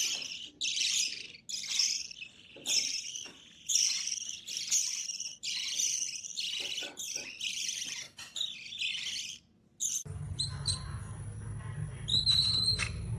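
A bird chirping over and over in short, high calls, about one or two a second. About ten seconds in it stops abruptly, giving way to a steady low hum with a few brief high whistles.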